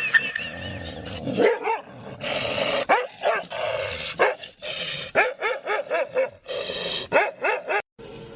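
Dog barking and yipping in a fast run of short barks that rise and fall in pitch, with a few harsher, noisier stretches in between.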